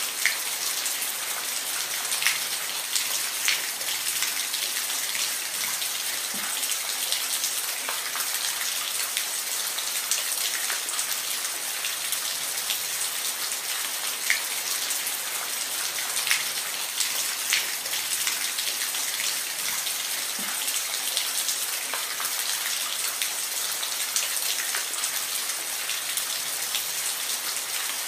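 Steady rain falling, an even hiss with scattered louder drop ticks on a surface.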